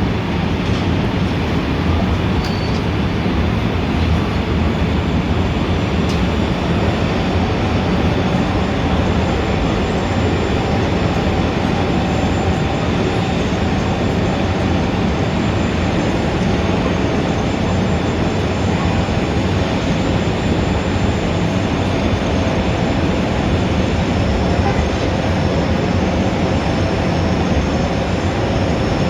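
Steady, dense city street traffic noise, a constant wash of engines and tyres with no single vehicle standing out.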